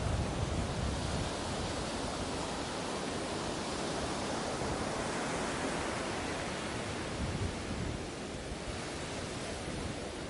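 Ocean waves washing onto a beach: a steady surf hiss that swells in the middle and eases off near the end.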